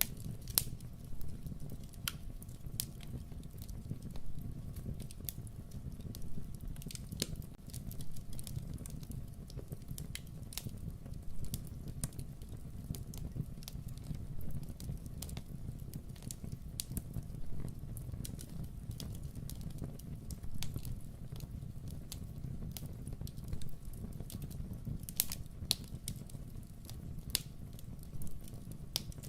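Wood fire in a fireplace crackling and popping, with irregular sharp snaps over a steady low rumble.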